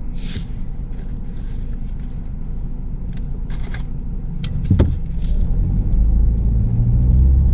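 Car engine and road noise heard from inside the cabin while driving, with a few light clicks and one sharper knock about five seconds in. The low rumble grows louder over the last couple of seconds.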